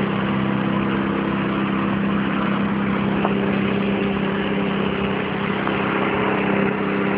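Snowblower engine running at a steady speed: an unbroken, even drone.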